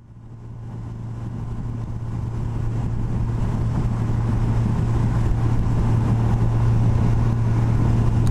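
Yamaha FJR1300 motorcycle's inline-four engine running at a steady cruise, with road and wind noise. It fades in from silence over the first few seconds.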